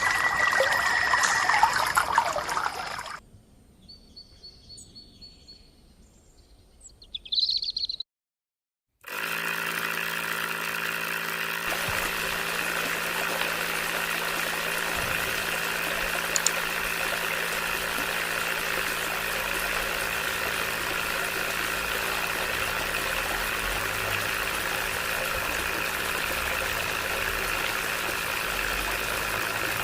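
Water trickling over background music at first, then after a brief quiet stretch and a cut, a small electric motor runs with a steady, unchanging whir.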